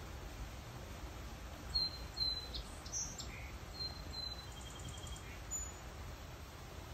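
Small birds chirping: a scattering of short, high chirps, starting about two seconds in and dying away near the end, over a steady low background rumble.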